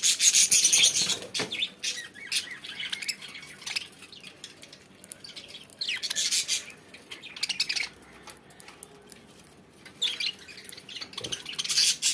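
Pet budgerigars chirping and chattering in bursts, with quieter gaps between, and scattered small clicks.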